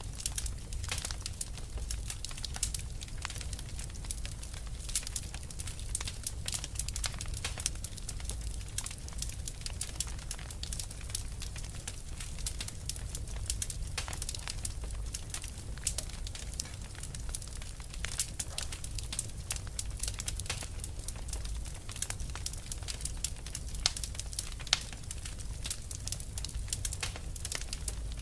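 Wood fire burning, with frequent sharp irregular crackles and pops over a low steady rumble of flame.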